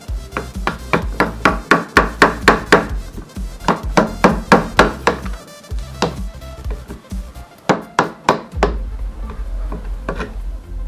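Rapid hammer blows on wood, about three or four strikes a second, that mostly stop near the end, over background music.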